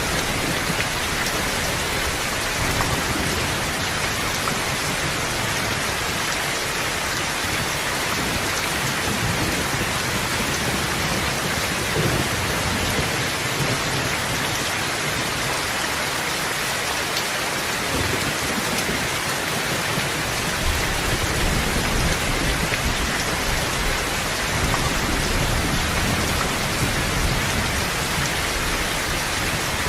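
Steady rain falling, an even hiss of dense drops, with low rolls of distant thunder that swell and fade underneath, easing off for a few seconds midway.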